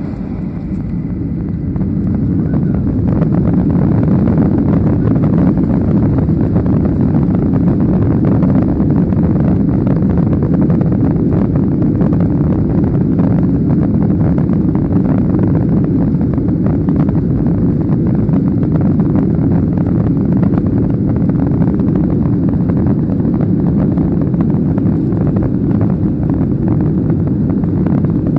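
Boeing 737-800 jet engines at takeoff power, heard from inside the cabin: a deep, steady rumble that builds over the first few seconds and then holds.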